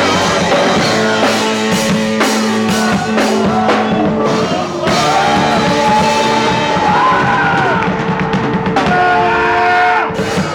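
A punk rock band playing live, loud: drum kit hits and distorted electric guitar with singing. The drum hits thin out about halfway, leaving held, wavering notes, and the music drops off near the end.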